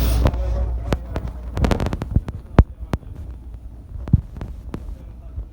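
Irregular soft knocks and clicks over a low hum, after a steady rumble dies away about a quarter second in.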